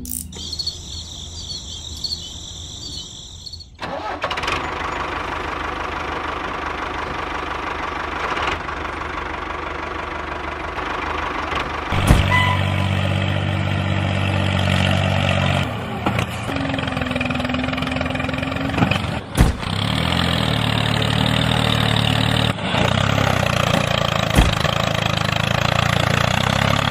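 Tractor engine running, its pitch shifting up and down several times, with a high whine for the first few seconds.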